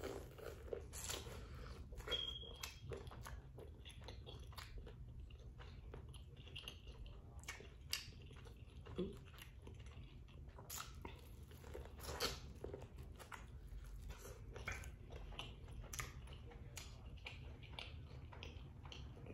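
A person biting and chewing boiled corn on the cob close to the microphone: irregular soft clicks and crunches of the mouth, with a faint steady low hum beneath.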